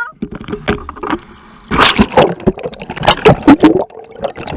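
Sea water splashing and sloshing close against the microphone in irregular surges, loudest in two spells in the middle.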